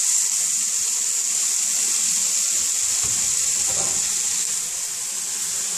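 Thin slices of ham sizzling in a lightly oiled frying pan over a gas flame, a steady high hiss.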